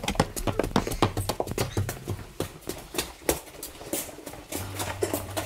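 Footsteps on concrete stairs and then a concrete floor: a quick, irregular run of hard, sharp steps. A low steady hum comes in near the end.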